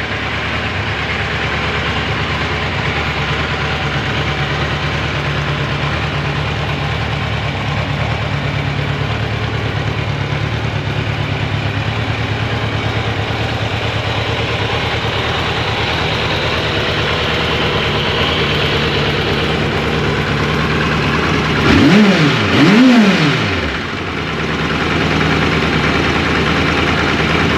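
Kawasaki Concours ZG1000 inline-four motorcycle engine idling steadily, freshly filled with new oil. About two-thirds of the way through the throttle is blipped twice in quick succession, the revs rising and falling each time before it settles back to idle.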